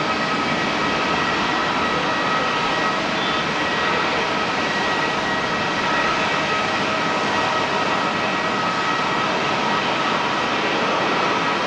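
Airbus A330-300 jet engines running steadily: a constant rush with a few steady, high whining tones on top, holding level throughout.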